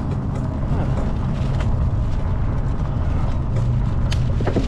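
Wind buffeting the camera microphone: a steady low rumble with a few faint clicks.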